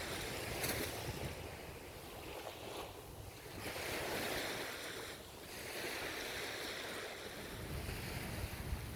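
Ocean waves washing onto a shore, the surf swelling and easing in slow surges a few seconds apart, with some wind on the microphone.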